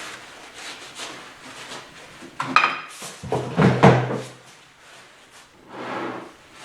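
Transmission parts being wiped down and handled on a work surface: faint rubbing, then a sharp metallic clink about two and a half seconds in, followed by knocking.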